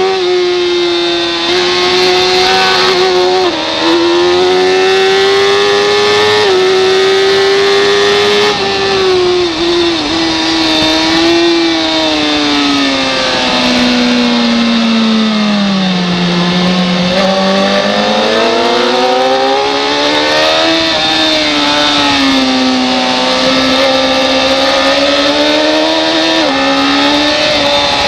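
Racing motorcycle engine at high revs with wind rush, heard onboard. The pitch steps up through a few gear changes in the first several seconds, then falls over about eight seconds as the bike slows to its lowest revs about 16 seconds in, and climbs again as it accelerates.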